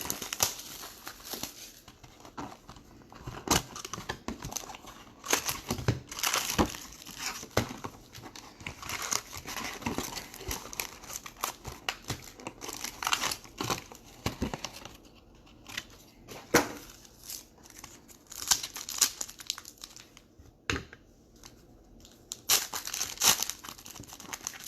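Crinkling and tearing of a foil trading-card pack wrapper, with cards being handled: irregular sharp crackles that come and go, with brief lulls.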